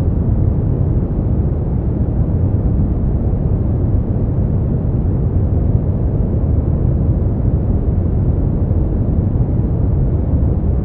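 Steady, unchanging generated noise from a sleep-aid white noise track. Its energy sits heavily in the bass and there are no highs, so it is a deep, even rumble rather than a hiss.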